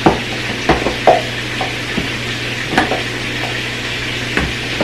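Chicken breast sizzling steadily as it fries in a pan, with scattered light clicks and knocks of a utensil against cookware.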